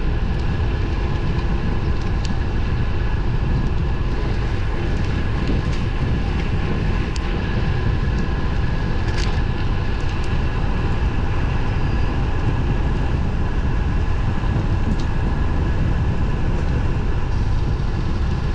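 Wind rushing over the camera microphone and steady road noise from a road bike riding at speed, with a few sharp ticks along the way.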